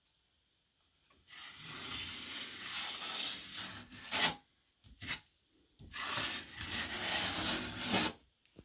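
Drywall knife scraping over wet joint compound and tape, in two long strokes of about two seconds each, with two short scrapes in between.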